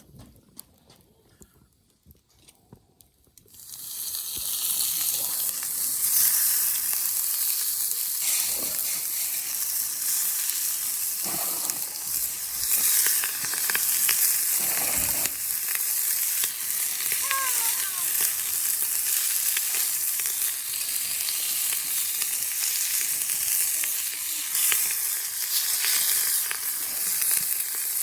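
Meat frying in a cast-iron skillet over a campfire. The sizzling starts suddenly about three seconds in and carries on steadily, with many small pops.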